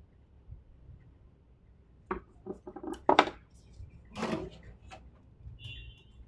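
Tools and small hard objects clattering and knocking on a workbench, a handful of sharp knocks between about two and five seconds in, followed by a brief high squeak near the end.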